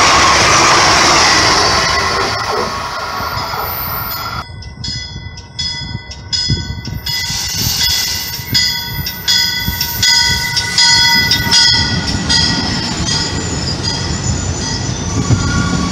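An Amtrak train rushing past at speed. Then a MARC push-pull commuter train approaches and passes close, with several steady high-pitched tones coming and going over it and regular wheel clatter in the last few seconds as the coaches go by.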